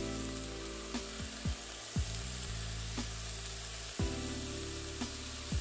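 Egg and vegetable fried rice sizzling in a hot kadai, a steady frying hiss. Under it, background music with a beat about once a second.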